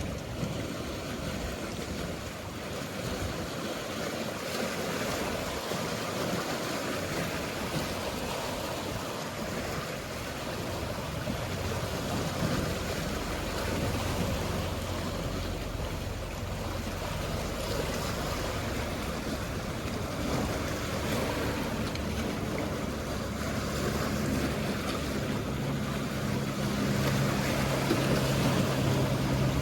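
Sea waves washing with a steady hiss. About two-thirds of the way through, a low boat engine hum comes in and grows louder toward the end.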